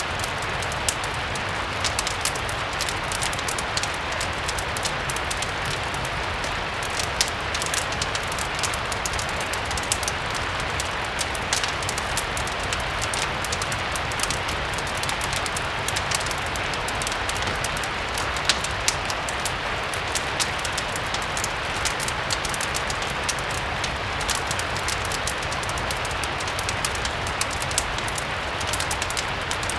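Steady rain, an even hiss, mixed with a wood fire crackling, with many small sharp snaps and a few louder pops scattered through it.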